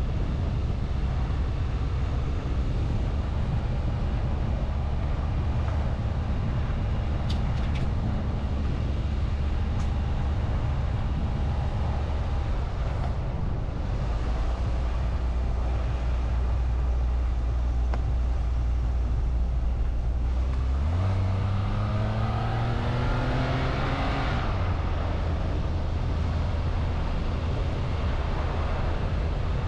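Car engine and road noise heard from inside the cabin while driving. About 21 s in, the engine note rises steadily for a few seconds as the car accelerates, then drops back as it shifts up.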